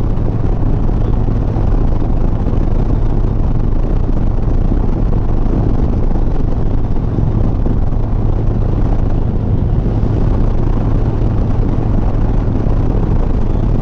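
Harley-Davidson Sport Glide's V-twin engine running steadily under way, a constant low hum mixed with wind and road noise on the rider's microphone.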